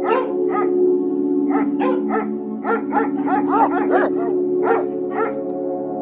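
Dog barking repeatedly in a quick series, about two barks a second and faster in the middle, with a short pause near the end.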